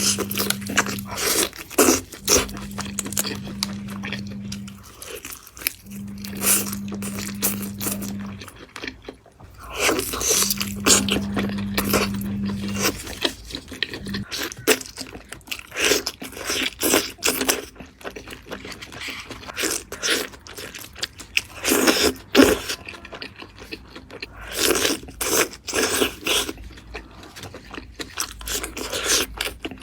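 Close-miked eating of chicken cooked with red chillies: crunching bites and chewing, with many sharp crackles. A low hum comes and goes in stretches of a few seconds during the first half.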